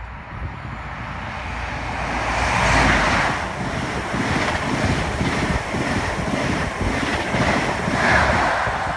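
Virgin Trains East Coast express train passing through the station at high speed without stopping. Its loud rushing noise builds to a peak about three seconds in as the front goes by, then runs on with a quick rhythmic clatter of wheels and swells again near the end.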